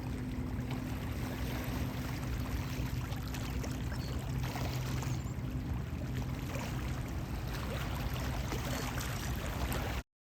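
Steady low hum of the cruise ship Ocean Voyager's diesel engines over a wash of moving water. It cuts off abruptly near the end.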